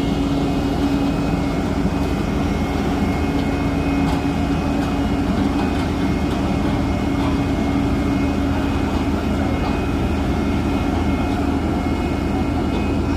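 Heavy truck's diesel engine running steadily with a constant droning hum.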